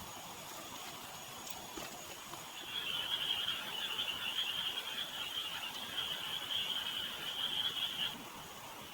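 An animal's high trilling call, one continuous trill starting about three seconds in and stopping suddenly about five seconds later, over quiet outdoor background.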